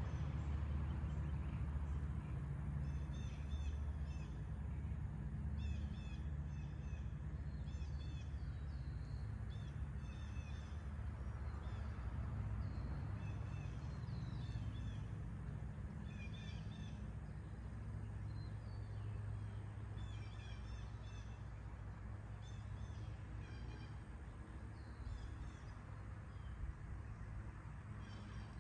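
Several wild songbirds singing, a run of short repeated chirps and trills from different birds, over a steady low background rumble.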